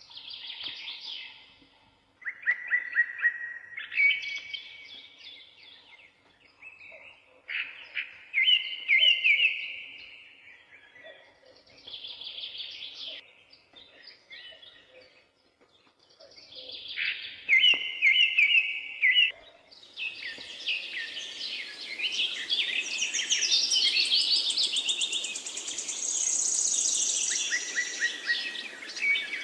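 Songbirds singing: trilled phrases a few seconds apart, then from about two-thirds of the way in several birds singing at once over a steady hiss.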